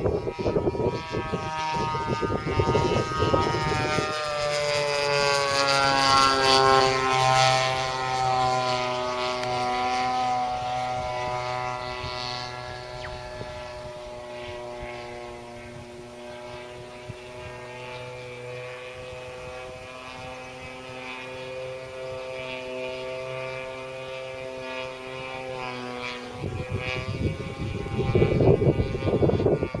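Radio-controlled model airplane's motor and propeller droning as it flies, dropping in pitch about seven seconds in as it passes and then holding a steady note. Wind buffets the microphone for the first few seconds and again near the end.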